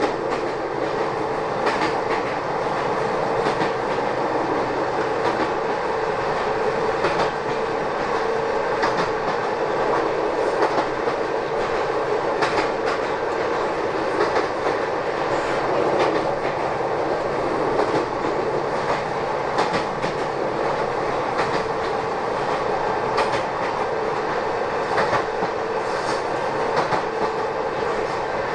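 Kobe Electric Railway Arima Line train running between stations, heard inside the passenger car: a steady rumble of wheels on the track with a steady hum and scattered clicks from the wheels over the rails.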